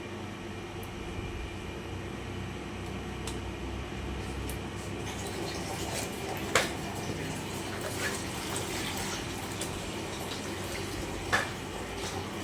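Water splashing and pouring as vegetables are washed by hand, with scattered small clicks and two sharp knocks, one about six seconds in and one near the end.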